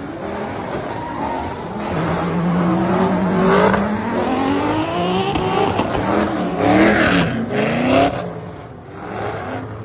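Car engine revving hard in repeated rising sweeps, with tire squeal as the car drifts. The revs climb several times from about three seconds in, peak near eight seconds, then fall away.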